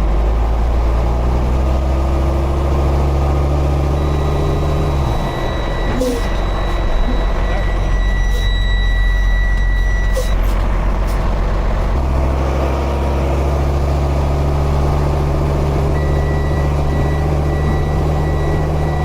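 Heavy wrecker tow truck's diesel engine working hard at steady high revs under load on a steep grade. It eases off about five seconds in and pulls hard again about twelve seconds in. A high, steady reversing-alarm tone sounds over it in the middle and again near the end.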